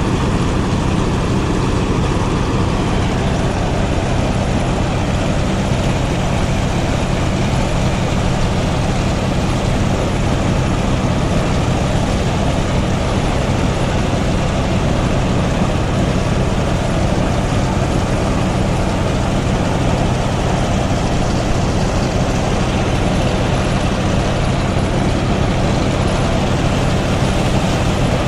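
Motorised rice threshing machine running steadily: an even low engine drone under a constant rushing noise of threshing.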